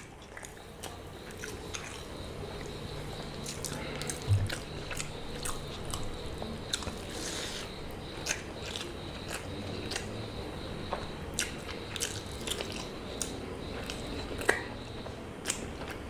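Close-up eating of roast chicken: repeated bites and chewing, with many short wet mouth clicks and crunches. There are two louder crunches, one about four seconds in and one near the end, over a faint steady hum.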